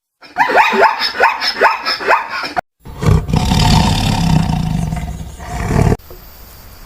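Two animal calls in a row: first a quick run of short squeaky calls that slide down in pitch, then, after a brief gap, a long deep roar lasting about three seconds that cuts off suddenly.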